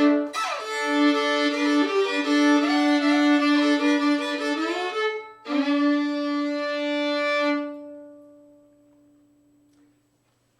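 Solo fiddle, a c.1890 Hopf-stamped trade violin fitted with a double bass bar, playing a tune in double stops over a steady low drone note. There is a short break about five seconds in. The fiddle then holds a final note that rings on and fades away over about two seconds.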